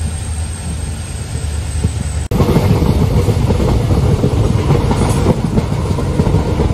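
Moving passenger train heard from an open carriage doorway: a steady rumble of wheels and coach on the rails. After a sudden break about two seconds in, the rumble is louder and fuller.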